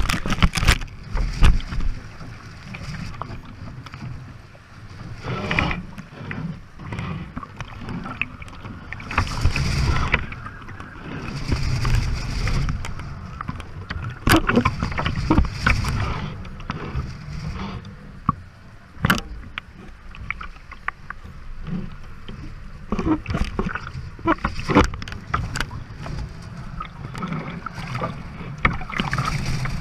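A sailboat driving through high waves in strong wind: wind buffeting the microphone with a low rumble, surges of water rushing and splashing against the hull, and scattered sharp knocks from the boat.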